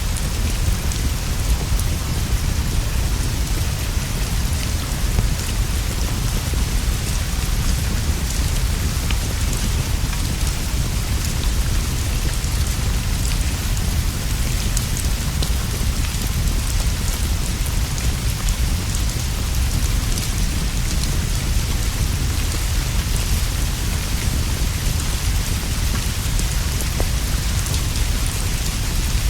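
Steady rain falling on leaves and a roof, with a constant deep low rumble underneath and faint scattered ticks.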